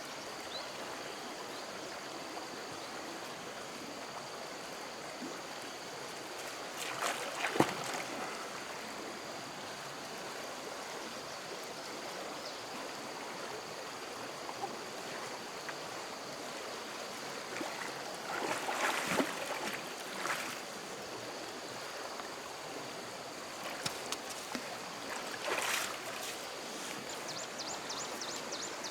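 Steady rushing of flowing stream water, with a thin high-pitched tone held over it and three short bursts of louder noise about 7, 19 and 25 seconds in.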